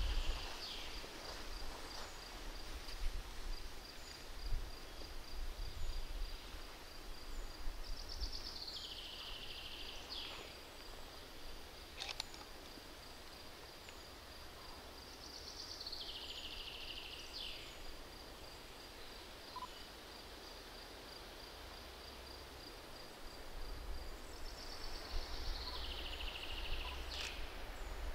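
Bird song: a short trilled phrase falling in pitch and ending in a quick flourish, sung four times several seconds apart. Under it runs a faint steady string of high repeated notes, with low wind rumble near the start and end.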